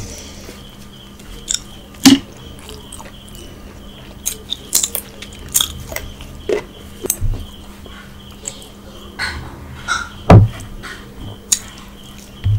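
Close-miked chewing of a mouthful of rice and chicken curry eaten by hand, with irregular sharp mouth clicks; the two loudest come about two seconds in and about ten seconds in.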